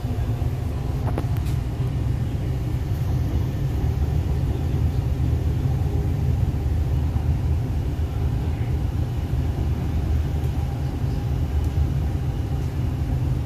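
Steady low rumble of an MTR East Rail Line R-Train running, heard inside the passenger car.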